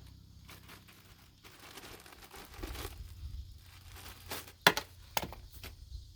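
Rustling, crinkling handling noises with a few sharp clicks, the loudest about three-quarters of the way through.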